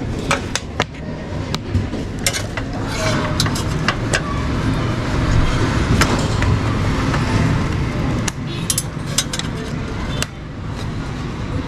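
Clicks and knocks of a desktop RAM module being handled and pushed back into its motherboard slot, with the slot latches snapping shut, over a steady low background rumble.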